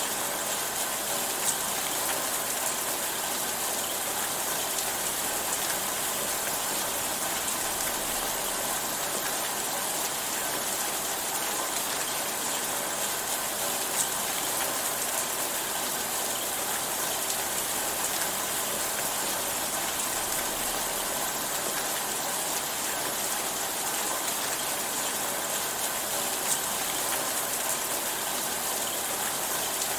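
Steady rain falling as an even hiss, with a few sharper drop ticks standing out now and then.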